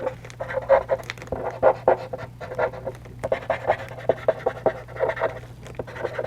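Eraser rubbing back and forth on charcoal paper in quick scratchy strokes, several a second, lifting charcoal around the wing veins.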